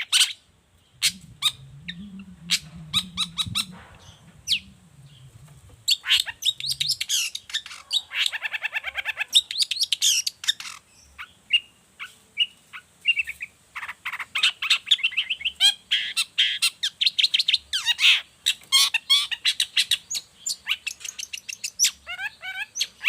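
Long-tailed shrike (cendet) singing in full voice: rapid runs of sharp chattering notes and fast trills, broken by short pauses.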